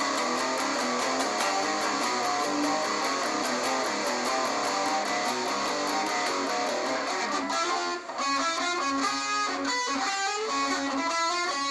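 Electric guitar played through an amplifier and a Behringer VD400 analog delay pedal set to a long delay, the notes ringing on with their repeats. Faster, separately picked notes come in about three-quarters of the way through, and the playing stops at the end.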